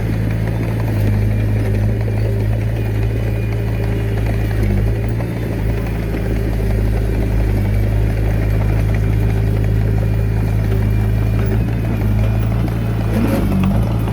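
Diesel engine of a Komatsu D21A mini bulldozer running steadily at an even speed.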